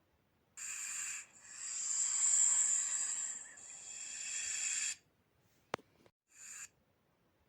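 Snake hissing in separate breaths: a short hiss, then a long one of about three and a half seconds, then a sharp click and another short hiss.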